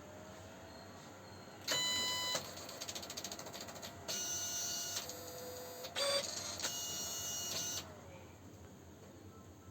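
Epson PLQ-20 dot-matrix passbook printer at work: its motors whine in several short stretches, with a very fast rattle of the print head between them. This runs from about two seconds in until about eight seconds in.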